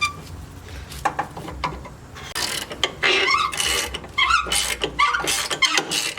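Mechanical clicking and squeaking as the Jeep JK's stock front upper control arm is unbolted and worked free, quieter for the first two seconds and busier after. The arm's bushing is bulged and blown out, the cause of the squeaking noises.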